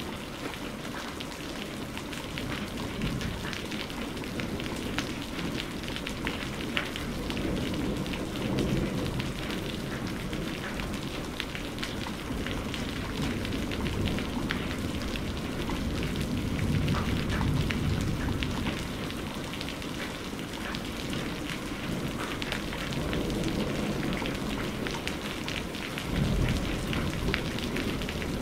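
Steady heavy rain with dense pattering drops, under low rumbles of distant thunder that swell and fade a few times.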